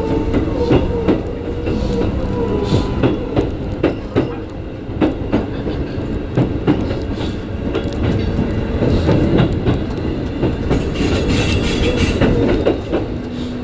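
Keikyu 1500 series electric train running over rail joints and pointwork, heard from inside the driver's cab: irregular sharp wheel clacks over a steady rumble, with a thin high wheel squeal on the curve in the last few seconds.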